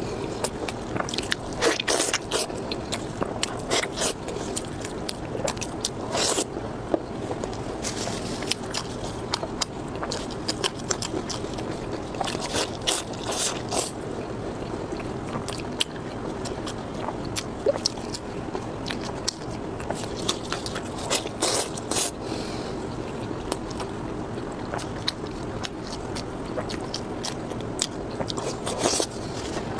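Close-miked eating: a person biting and chewing with wet mouth sounds, broken by frequent sharp clicks and scrapes.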